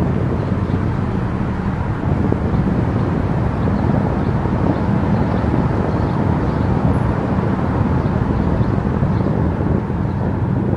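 Steady tyre and wind noise of a car travelling at highway speed, an even rush with no breaks.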